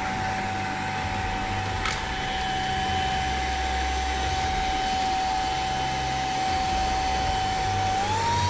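Proscenic i9 cordless handheld vacuum cleaner running, its motor giving a steady whine that rises in pitch near the end as the motor speeds up.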